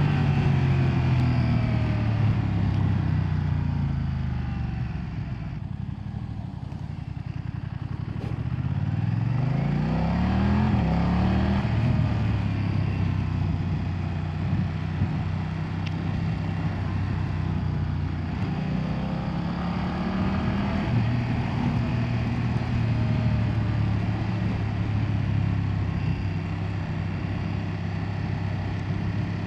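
BMW F900R's 895cc parallel-twin engine running under a rider: the revs ease off and the sound drops a few seconds in, then climb again in a rising glide about eight seconds in before settling into a steady cruise, with another brief dip and rise about twenty seconds in.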